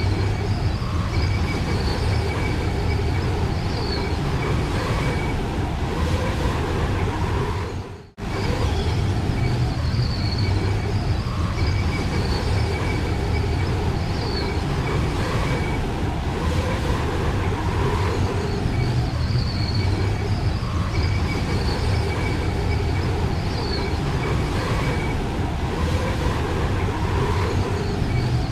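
Steady roar of strong blizzard wind, broken by a brief dropout about eight seconds in.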